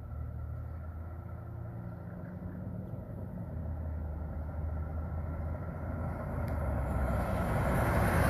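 A vehicle's engine running with a low steady hum, while a rushing noise grows louder over the last few seconds, as of a vehicle drawing near.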